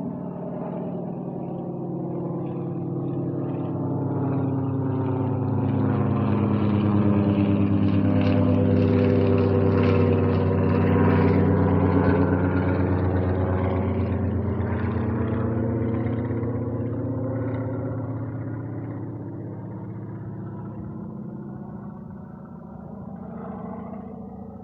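Airplane flying past, its engine drone growing louder to a peak about ten seconds in, then slowly fading away.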